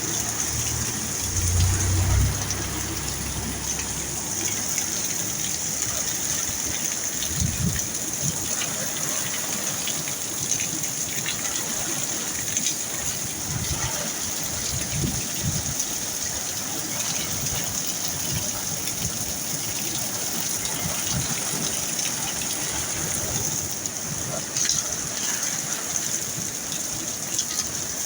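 Heavy rain pouring steadily in a storm, with a brief low rumble about two seconds in.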